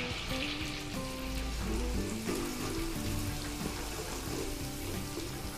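Ground spice paste sizzling as it drops into hot oil in a wok and is stirred, the sizzle strongest in the first moment, under background music.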